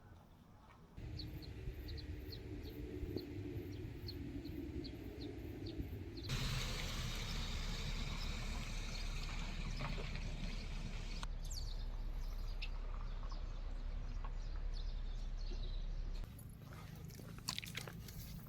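Outdoor ambience cut together from several short clips. First a small bird or insect repeats a high chirp about twice a second. Then comes a louder steady rushing noise with a low hum, which ends abruptly and gives way to quieter ambience with scattered light clicks.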